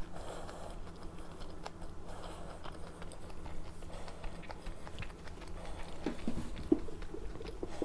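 Close-miked eating sounds: soft chewing with many small clicks and ticks, and a few brief hummed murmurs about six seconds in.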